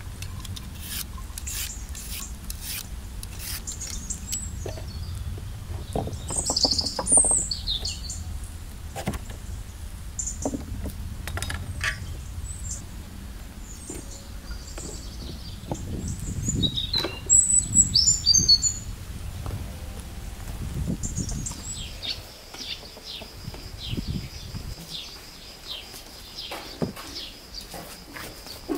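Small birds chirping and twittering, loudest in two phrases about seven seconds in and again around seventeen seconds. Beneath them are many short clicks and scrapes from vegetable peeling.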